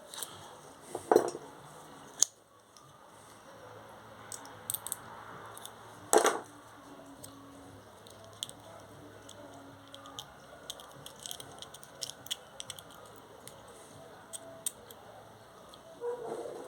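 Gate-motor parts being handled: scattered light clicks with a few sharper knocks, the loudest about six seconds in.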